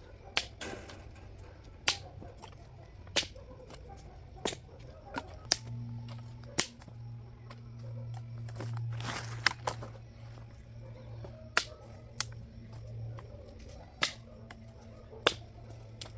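Dry branches snapping as they are cut for firewood: a sharp crack about every second or so. A low steady hum runs under the middle stretch.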